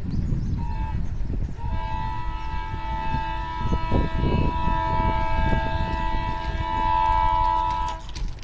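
Train horn: a short toot, then one long steady blast of about six seconds that cuts off abruptly, over the low rumble of a train.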